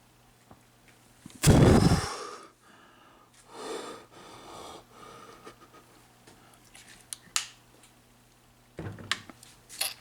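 A person breathing hard close to the microphone: one loud blowing exhale about a second and a half in, then softer breaths, with a few sharp clicks later on.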